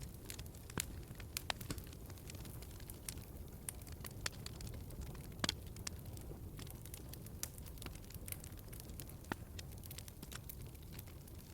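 Wood fire crackling in a fireplace: a steady low rumble of the flames with irregular sharp pops and snaps, the loudest about five and a half seconds in.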